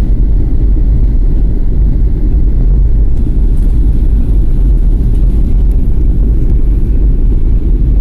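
A loud steady low rumble, heaviest in the deep bass, with no clear pitch or distinct strokes.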